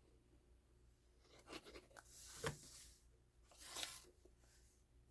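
Faint paper handling: soft rustles and a short scrape of paper, with one sharp tap about two and a half seconds in.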